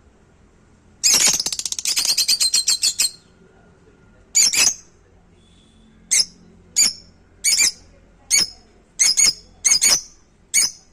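Pet parrot squawking angrily. It gives a rapid, rattling run of harsh pulses for about two seconds, then a string of short, shrill screeches, one every half second to a second.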